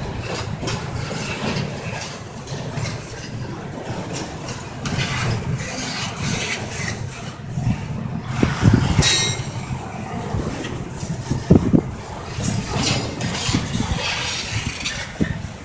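Intermodal freight train rolling past: a continuous rumble of steel wheels on rail, broken by sharp metallic clanks and a brief high screech about nine seconds in and again around twelve seconds.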